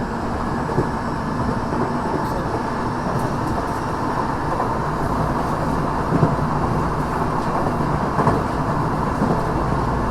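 Onboard running noise of a Tokyo Metro 6000-series electric train with Mitsubishi IGBT-VVVF traction, heard inside the car while under way: a steady rumble of wheels on rail with a few faint steady tones above it.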